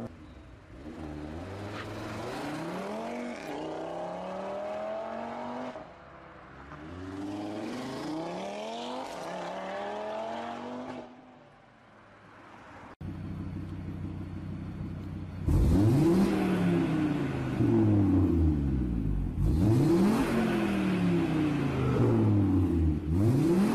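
Audi RS3's turbocharged 2.5-litre five-cylinder accelerating hard away, its pitch climbing in steps through the gears twice. Then, after a short lull, a stationary RS3 is revved hard again and again, pitch rising and falling with each blip.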